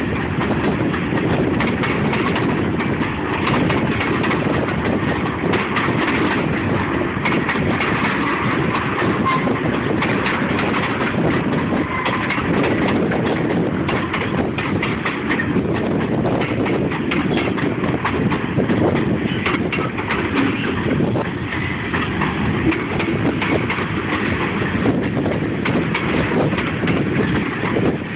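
A freight train's cars rolling steadily past: a constant rumble of steel wheels on rail, with a running clatter of clicks and knocks from the wheels and couplings.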